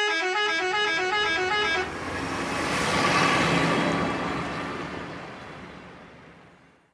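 Vehicle horn tooting in a quick alternating two-note pattern for about two seconds. A rushing noise then swells and slowly fades away.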